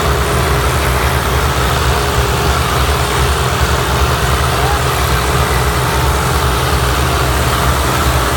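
Tractor diesel engines running steadily, their low engine note holding level with no revving.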